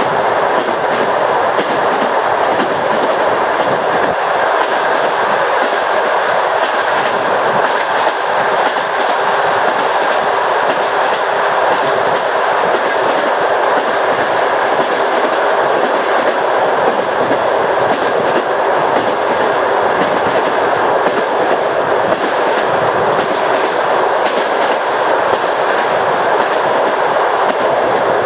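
Train wheels running over jointed rails: a steady rushing noise with frequent clicks of the wheels crossing rail joints.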